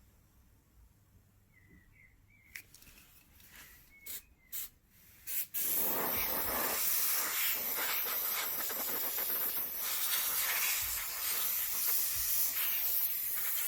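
Can of compressed air (air duster) spraying into a PlayStation 4 to blow out dust: a few short puffs, then a long continuous hiss from about five and a half seconds in.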